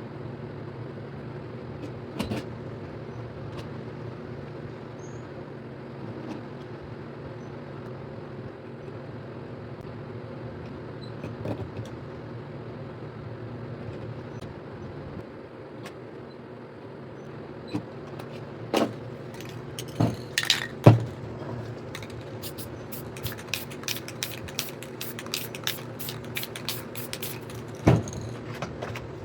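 A steady low mechanical hum, with scattered clicks and knocks of small objects being handled. The clicks come thicker in the last third, and the loudest is a sharp knock about two-thirds of the way through.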